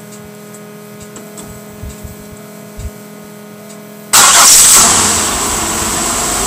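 Supercharged 3800 V6 (L67) of a 1998 Oldsmobile LSS being remote-started with the hood closed: about four seconds in it catches suddenly, flares loud for a moment, then settles to a steady idle.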